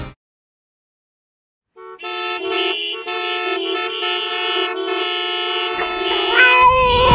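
Several car horns honking at once in a steady, overlapping blare, as in a traffic jam, after about two seconds of silence. Near the end a wavering, sliding tone joins in.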